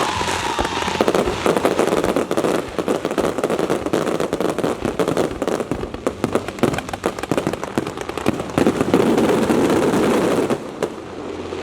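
Firecrackers and fireworks going off in a fast, dense barrage of bangs. It starts about a second in and dies down shortly before the end.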